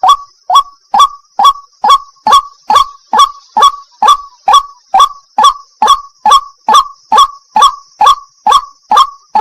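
White-breasted waterhen (burung wak-wak) calling: one short harsh note repeated at an even pace, a little over two calls a second, each rising in pitch, over a steady faint hiss.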